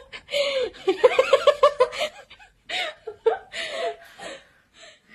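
A person laughing in fits: a quick run of rhythmic 'ha-ha' pulses about a second in, then a few shorter, breathier laughs that trail off.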